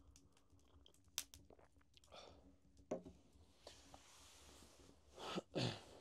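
Someone quietly chewing and biting into crusty bread, with a few sharp clicks and some short hummed sounds, the loudest two near the end.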